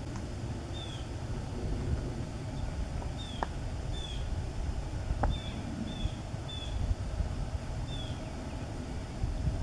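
A small bird calling repeatedly, short high notes that slide downward, about ten of them at uneven spacing. Underneath runs a steady low rumble of wind on the microphone, with two faint clicks near the middle.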